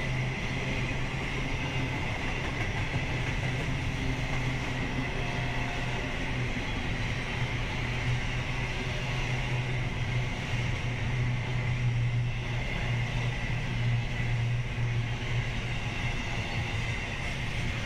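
Double-stack intermodal well cars of a freight train rolling past, a steady heavy rumble of wheels on rail with a thin steady high tone over it.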